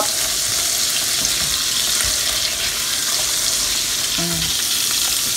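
Pork chops frying in butter in a hot frying pan: a steady, even sizzle.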